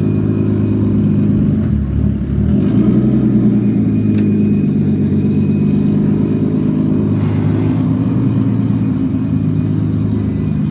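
A car engine running close by and loud, with a steady rumble. About two seconds in its pitch dips and then climbs again, as with a blip of the throttle or a gear change.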